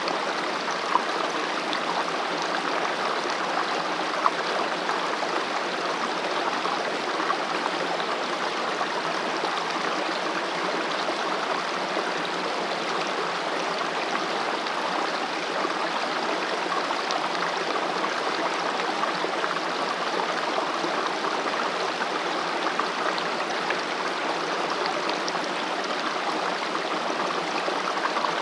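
Mountain valley stream flowing over rocks: a steady, even rush of water with bright splashing and gurgling, unchanging throughout.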